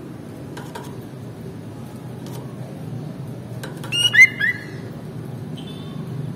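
Sooty-headed bulbul calling: one short loud burst of two or three bright whistled notes about four seconds in, and a faint short call near the end, over a steady low background hum.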